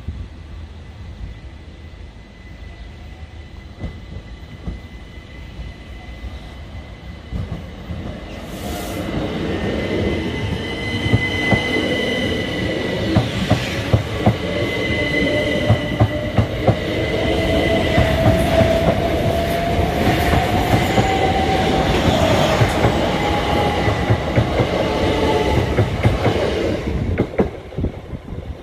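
Southern Class 377 electric multiple unit pulling away from the station and passing over a level crossing. It grows louder from about eight seconds in, then its wheels clatter over the rail joints in quick runs of clicks under a steady electric whine that rises in pitch, before dropping away near the end.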